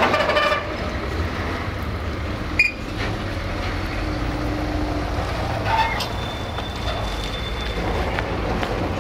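Freight train's empty container flat wagons rolling past, a steady low rumble of wheels on rail. A single sharp clank comes a little over two seconds in, and a faint thin high tone is held for a couple of seconds in the second half.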